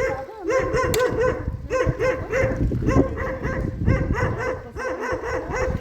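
A dog barking and yipping in quick, repeated short calls over a steady low rumble.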